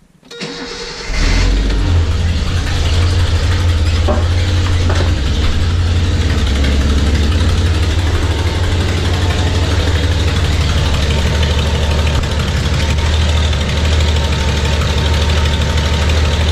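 Datsun L-series inline-six engine started: the starter cranks briefly, the engine catches about a second in, then idles steadily.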